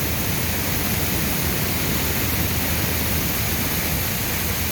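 Water jetting from an impact rotor sprinkler's nozzle, a steady hiss with no ticking, its hammer arm held back by hand.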